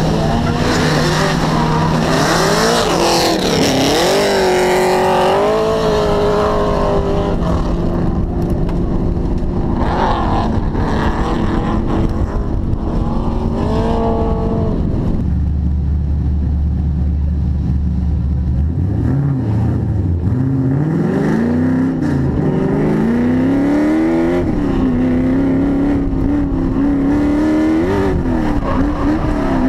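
Twin-turbo LS1 V8 in a drift car, heard from inside the cabin, revving up and down. About halfway through it settles to a low steady drone for a few seconds, then the revs climb again in repeated rises.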